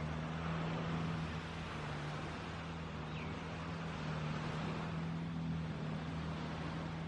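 A steady low motor drone over an even wash of surf.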